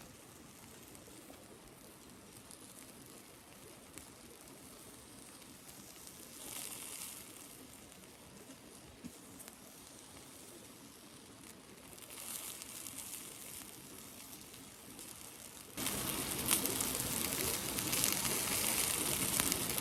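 Yakitori skewers sizzling faintly over binchotan charcoal, swelling briefly twice. About sixteen seconds in, a much louder steady hiss takes over.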